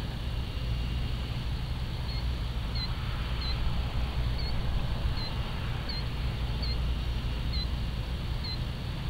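A small bird gives about nine short, high chirps, one roughly every 0.7 seconds, starting about two seconds in, over a steady low rumble.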